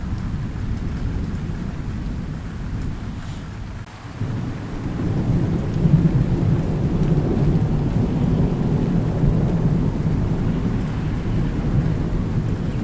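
Thunder rumbling low and long over steady rain. The rumble fades away about four seconds in, then a new roll of thunder swells up louder and keeps rolling.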